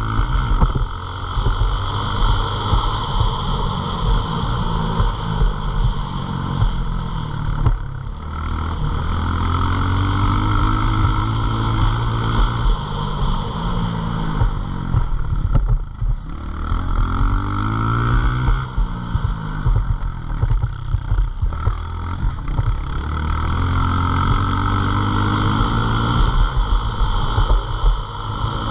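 Pit bike's small single-cylinder engine revving up and down over and over, its pitch climbing and dropping every few seconds as the throttle is opened and closed.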